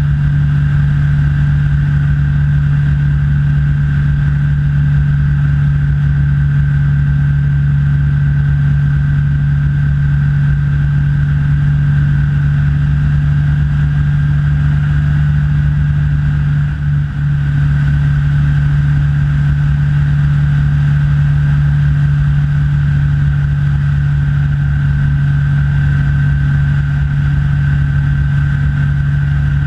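Rans S6 light aircraft's engine and propeller in steady cruise, heard from the cockpit: a constant loud drone with a thin high whine over it, dipping briefly about halfway through.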